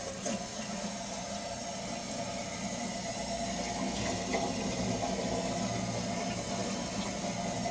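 1953 General Electric refrigerator running: a steady low hum with a hiss over it and a couple of faint clicks.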